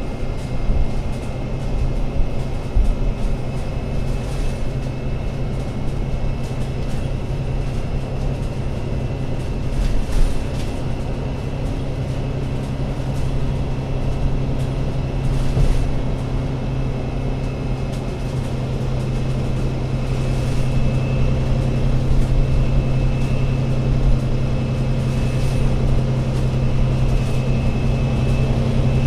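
Engine of an Alexander Dennis Enviro500 MMC Euro 6 double-decker bus running steadily: a low drone with a faint high whine over it and occasional brief rattles, growing a little louder in the last third.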